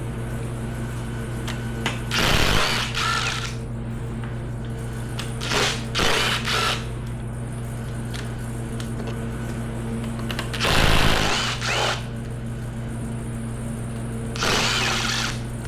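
Power drill with an 8 mm bit running in four short bursts of about a second each, spinning out valve cover bolts on a Ford 5.4 2V V8.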